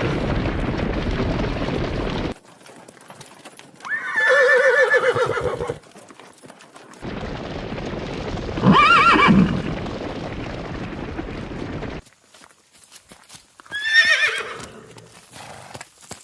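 Horses neighing: three separate whinnies, about four, nine and fourteen seconds in, between abrupt cuts from stretches of steady noise.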